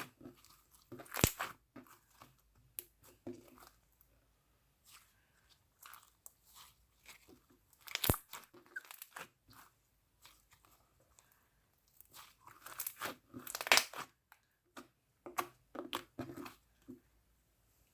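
Mixed slime being squished and stretched by hand, giving irregular crackling and popping clicks from trapped air. The clicks come in clusters, loudest about a second in, around 8 s in, and in a run near the three-quarter mark.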